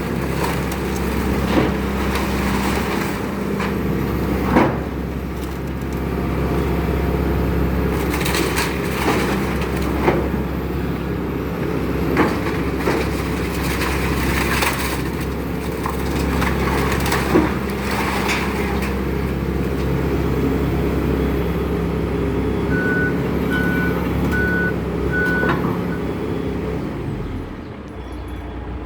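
Excavator engine running steadily under load, with sharp cracks and knocks of material breaking every few seconds. A short run of four even beeps comes near the end.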